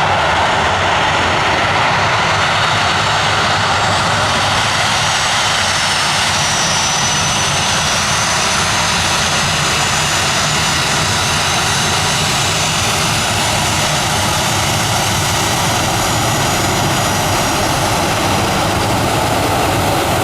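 Jet airliner engines near the runway: a loud, steady rush of jet noise that holds its level throughout.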